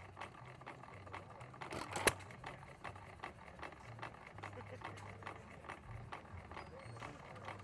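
An engine idling with a rapid, even putting and light ticking; a sharp click about two seconds in.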